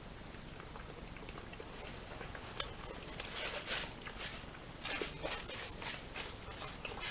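A person chewing food close to the microphone: quiet at first, then from a few seconds in a quick run of sharp wet clicks and smacks from the mouth.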